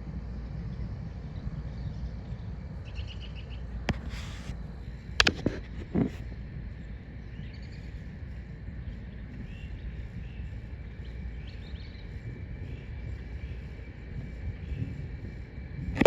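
Wind rumbling on the microphone, with birds chirping now and then and a few sharp knocks between about four and six seconds in.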